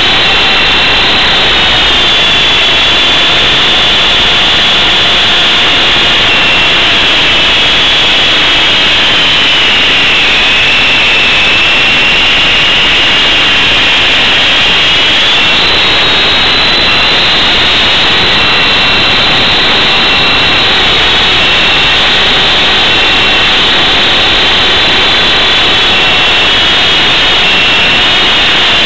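The two brushless motors of an Esky Big Lama coaxial RC helicopter running in flight: a loud high whine over a steady rush of rotor noise. The whine dips in pitch about ten seconds in and climbs back up around sixteen seconds.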